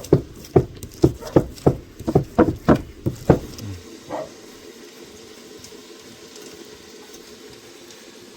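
Rhythmic chopping on a board, about three strokes a second, that stops about three and a half seconds in, followed by a faint steady hiss.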